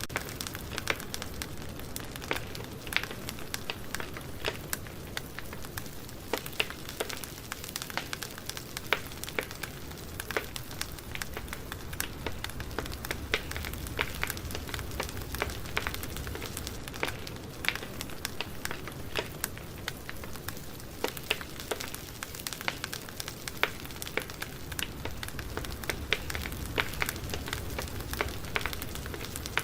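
Campfire burning: wood crackling and popping in irregular sharp snaps over a steady hiss of flame.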